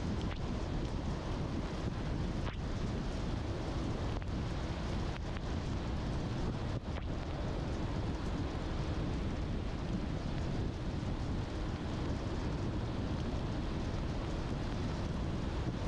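A car driving on a wet road in the rain: a steady low rumble of tyres and engine with an even hiss over it.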